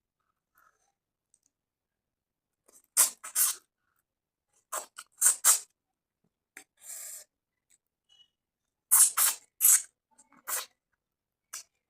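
Close-up mouth sounds of eating: clusters of short, sharp smacks and chewing noises, with one longer slurp or suck about seven seconds in.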